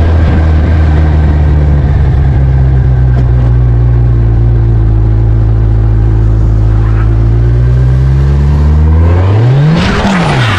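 Motorcycle engine running steadily under way, its pitch easing slowly lower. Near the end the revs shoot up and drop straight back as a sudden burst of noise begins, as the rear tyre slips out on loose gravel in a turn.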